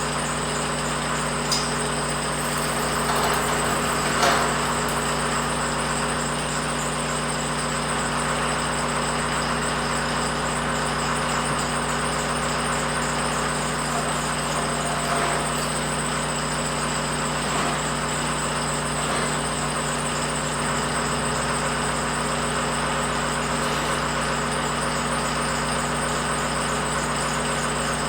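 A diesel engine idling steadily, with a thin high whine over it and a few faint knocks in the first few seconds.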